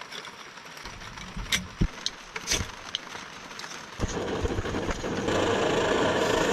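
Camp cooking gear handled with a few light clicks and knocks. About four seconds in, a steady hiss of the cooking heat starts, and it grows louder a second later.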